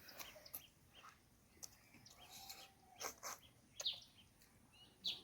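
Faint eating sounds, scattered mouth clicks and smacks from gnawing braised pork trotters, with a few short high chirps in the background.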